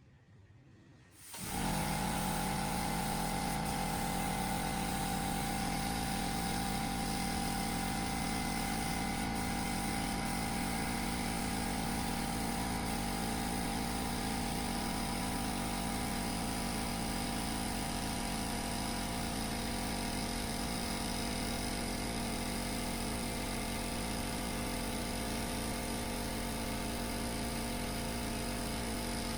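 Restored 2HP 30-liter air compressor switching on about a second and a half in and running steadily: its first start-up after a complete rebuild.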